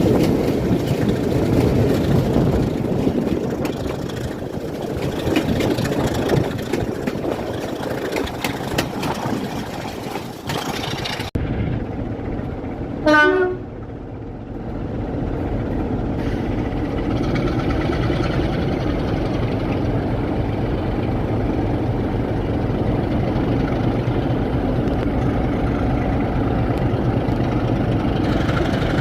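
Wind buffeting the microphone over a rumbling train, which stops abruptly about eleven seconds in; a couple of seconds later a train's horn gives one short blast, and then a heavy diesel locomotive engine idles steadily.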